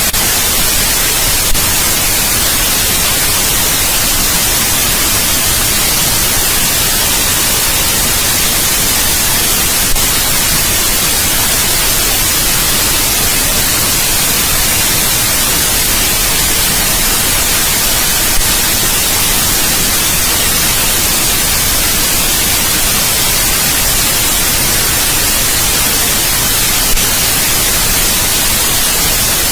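Continuous white noise: a steady, even hiss, brightest in the high end, with a faint click about every eight and a half seconds.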